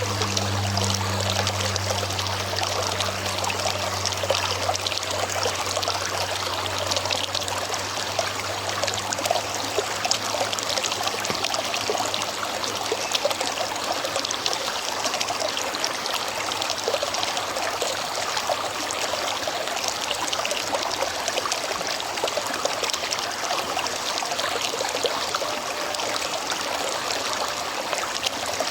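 River water running steadily over rocks, a continuous babbling rush. A low hum fades out in the first few seconds.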